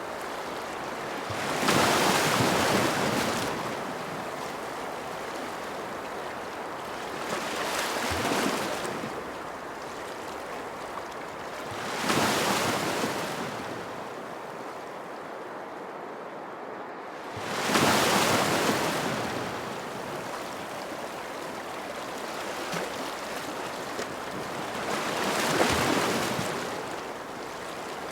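Ocean waves breaking on a shore, a wash of surf over a steady hiss, each wave swelling and fading, five in all, several seconds apart.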